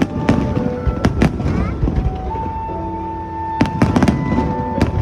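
Fireworks bursting in sharp bangs, a few scattered early on and then a quick cluster of cracks about three and a half seconds in, over music with long held notes.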